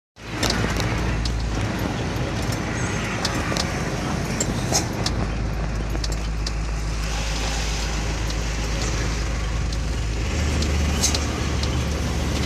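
Loaded truck driving on a highway: steady engine drone and road noise, with scattered light ticks and rattles. The engine note shifts slightly twice.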